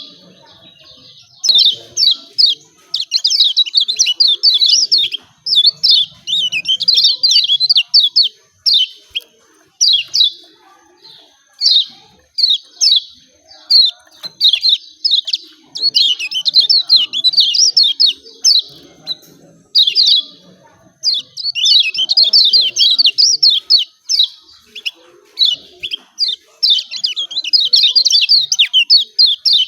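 Kecial kuning (a white-eye) giving rapid, scratchy 'ciak ciak' chirps in fast runs of one to three seconds with short pauses between them: the excited contest call used as a master recording to coax caged birds into calling.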